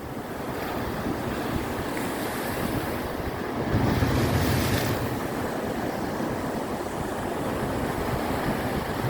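Sea waves breaking and washing onto the shore, with a louder wash about four seconds in, and wind buffeting the microphone.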